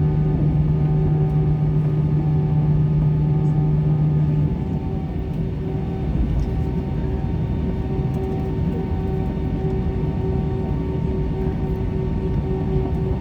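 Airliner noise while held on the ground: a steady low rumble with several constant hums. A deep hum cuts off about four and a half seconds in, and a higher tone pulses on and off at a regular beat.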